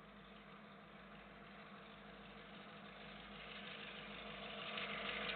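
Union Pacific diesel locomotive engine running steadily, growing louder as the flanger train approaches.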